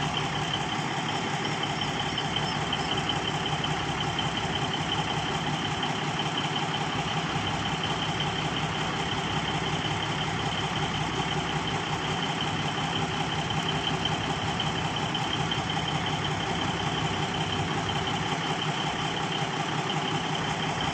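Diesel engine of a local passenger train running steadily, a constant low hum with a high steady whine.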